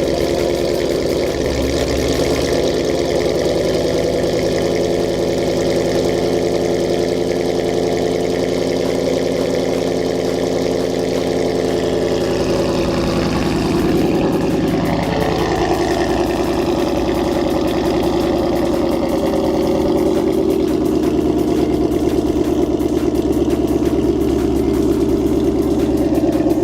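Ford Mustang GT's 5.0 Coyote V8 idling steadily through a Corsa exhaust, its pitch dipping and settling slightly lower about halfway through.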